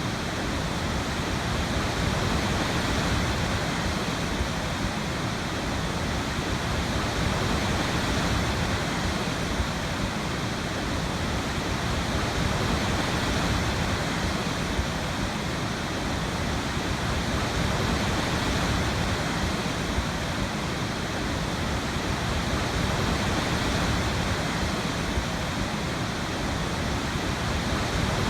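Waterfall, a steady full rushing of falling water with no breaks or changes.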